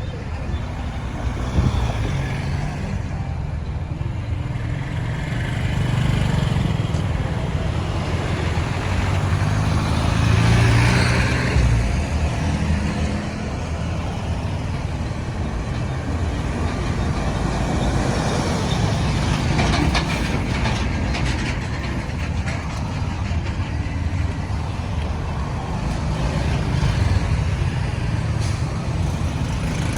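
Busy road traffic: a steady run of engine and tyre noise from trucks, cars and motorbikes, swelling louder about ten seconds in, with a few short clicks around twenty seconds in.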